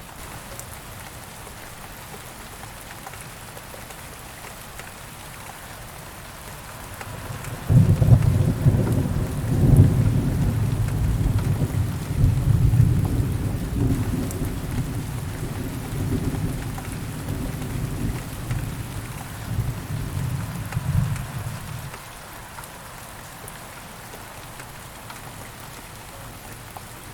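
Steady rain with a long roll of thunder: the rumble starts suddenly about a third of the way in, swells several times over about fourteen seconds, then dies away, leaving the rain alone near the end.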